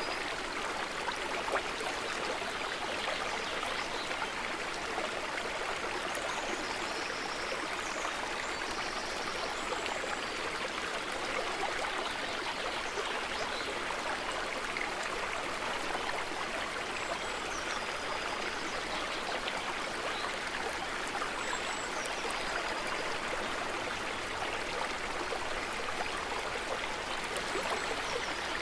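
Stream running steadily, with a few faint high bird chirps now and then.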